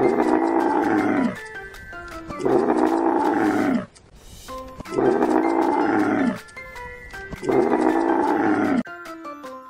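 Camel bellowing four times, each a throaty call of just over a second, repeating about every two and a half seconds over light background music.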